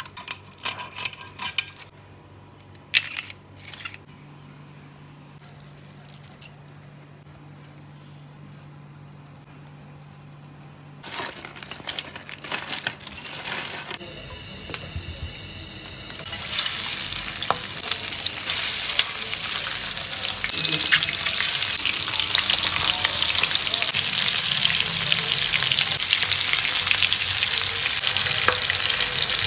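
A few sharp clicks of a blade cutting prawn whiskers at first, then from about 16 seconds in a loud, steady sizzle of large whole prawns, coated in turmeric, frying in hot oil in a pan.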